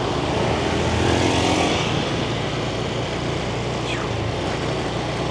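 Yamaha 125cc motorbike engine running as the bike rides off through city traffic, with street noise around it. It gets a little louder about a second in, then runs steadily.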